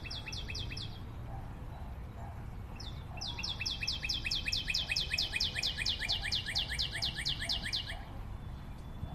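A bird singing a fast series of repeated high, downward-slurred notes. There is a short burst at the start, then after a pause a long run at about six notes a second that stops about eight seconds in, over a low rumble.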